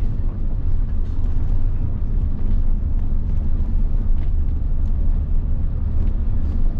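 Mitsubishi Fuso bus's 7.5-litre diesel engine running steadily while driving along the motorway, a steady low rumble mixed with road noise.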